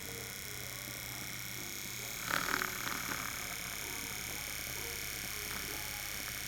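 A steady chorus of animal calls, even and unbroken, with a brief louder burst about two seconds in.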